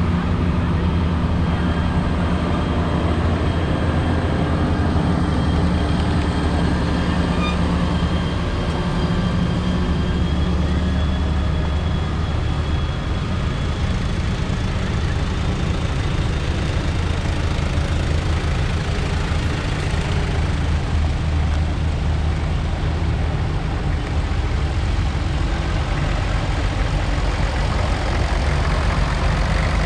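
Vehicle engines running with a steady low drone that holds even throughout.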